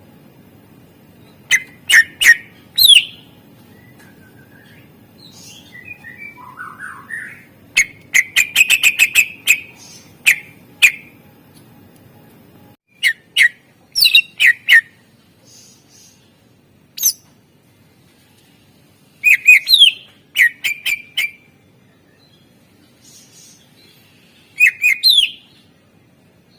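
Cucak ijo (greater green leafbird) singing a loud, varied song packed with mimicked phrases of other birds. It comes in short bursts of sharp chirps and sweeping whistles with pauses between them, and about eight seconds in there is a rapid run of about ten quick notes a second.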